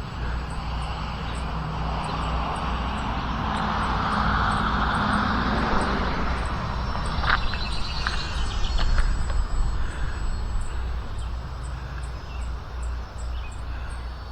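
Electric brushless motor and propeller of an E-flite Turbo Timber Evolution RC plane whining in flight, swelling as the plane comes closer about four to six seconds in and then fading, with gusty wind rumbling on the microphone throughout.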